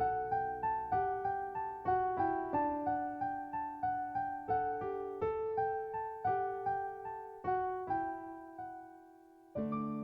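Background solo piano music: a gentle melody of single struck notes, about two to three a second, that fades away near the end before a new held chord sounds.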